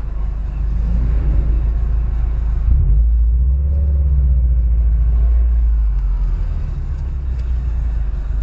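Car engine running with a heavy low rumble, swelling and easing off around the middle.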